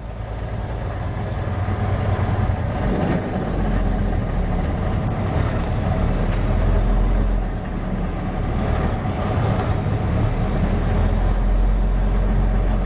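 Semi-truck's diesel engine running with a steady low rumble, dipping briefly about eight seconds in.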